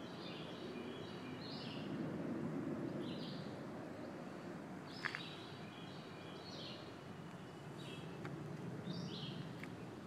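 Songbirds singing in woodland, short high phrases of quick descending notes repeated every second or two, over a low steady rustle of movement on the trail. A single sharp click about five seconds in.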